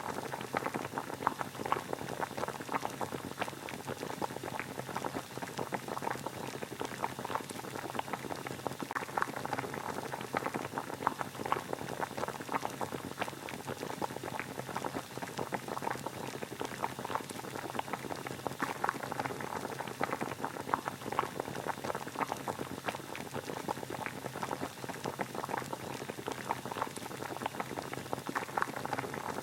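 Water boiling at a steady rolling boil: a dense, even bubbling and popping without let-up.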